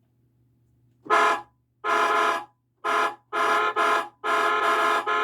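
Electronic horn sound effect from Road Rippers Street Poundin' Sound toy trucks' small speakers, honking about six times in uneven short and longer blasts, starting about a second in.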